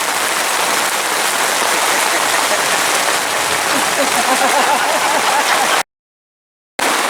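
Steady rain falling, an even hiss with faint voices underneath; the sound cuts out completely for about a second near the end.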